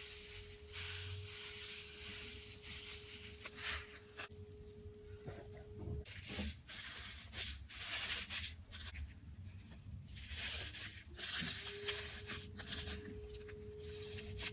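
Slime being squished and stretched by hand: quiet, irregular rubbing and crackly sounds, with a faint steady hum for the first six seconds and again near the end.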